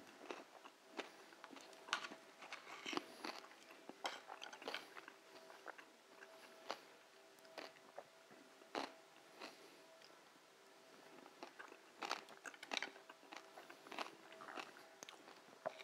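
Faint, irregular crisp crunches of someone chewing crunchy roast pork crackling and meat.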